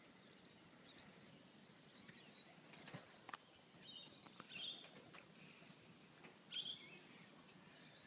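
Faint bird chirps, with two louder calls about four and a half and six and a half seconds in.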